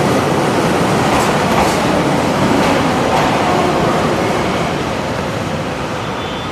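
A passenger train running along the platform track, a steady rumbling rail noise that eases off a little near the end.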